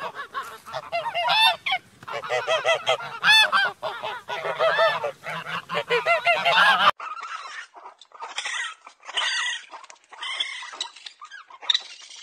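Several geese honking loudly in rapid, overlapping calls. About seven seconds in, the sound cuts abruptly to shorter calls from a different animal.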